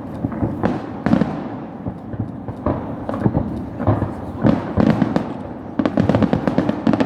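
Fireworks display: a steady series of loud bangs from bursting shells, turning into a rapid crackling volley of many reports near the end.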